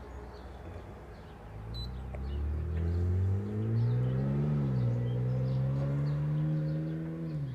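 An engine speeding up, easing back briefly, holding a steady run, then dropping to a lower, steady speed near the end.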